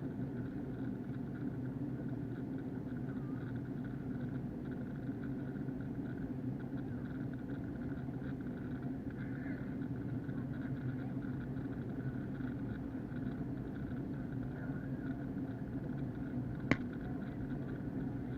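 Steady cabin drone of an Airbus A321 in flight, a low rumble of engines and airflow heard from a window seat. A single sharp click about seventeen seconds in.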